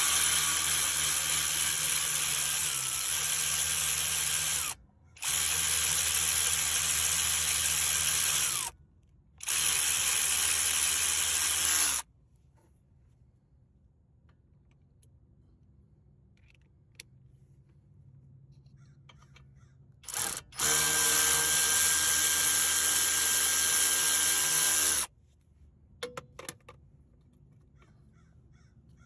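Handheld power tool running in four bursts of three to five seconds each: three in quick succession, then one more after a pause of about eight seconds. A few light clicks follow near the end.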